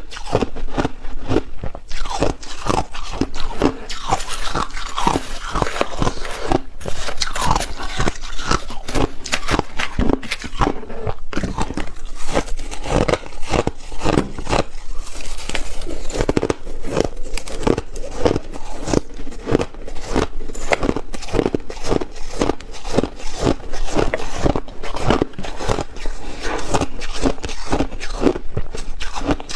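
Ice being bitten and chewed close to the microphone: a continuous run of crisp crunches, several a second, with only brief pauses.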